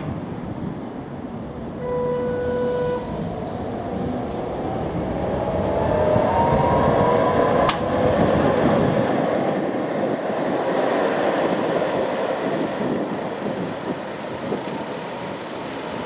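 Electric tram running past, its traction motors whining in a tone that rises in pitch over a few seconds as it picks up speed, over the rumble of its wheels on the rails. A short beep sounds about two seconds in, and there is a sharp click near the middle.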